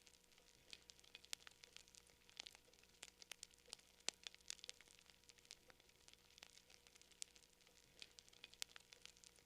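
Campfire crackling: faint, irregular sharp snaps and pops of burning wood, several a second, over a soft hiss.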